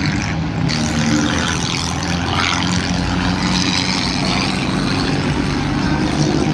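Tractor engine running loudly and steadily, with a deep, even engine note.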